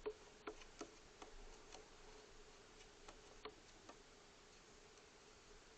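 Faint irregular clicks or taps, several in the first two seconds and then sparser, over a faint steady hum.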